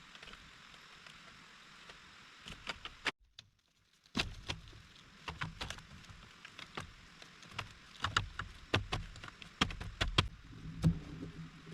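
Steady hiss of rain, then, after a short break, an irregular series of sharp clicks and knocks with dull low thumps, like materials being handled and worked.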